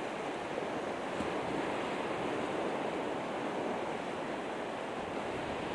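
Steady wash of surf along the shore: an even, unbroken noise with no separate waves standing out.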